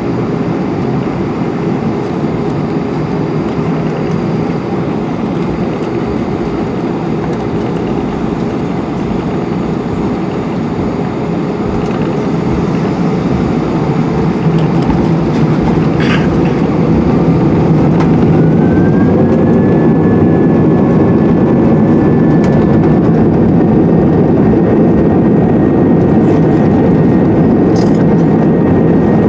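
Airbus A320-232 jet engines and rolling rumble heard from inside the cabin. A little past halfway the sound grows louder as the engines spool up, and a rising whine settles into a steady high tone: takeoff thrust being set.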